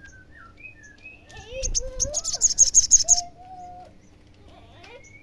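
Olive-backed sunbird giving a loud, rapid, high-pitched chattering 'cer-cer' series for about a second and a half, about two seconds in, mixed with lower gliding whistled notes.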